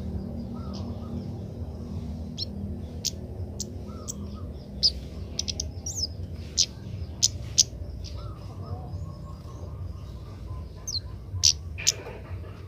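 A young kemade bird chirping: short, sharp, high notes at irregular intervals, with a few louder ones in the middle and near the end.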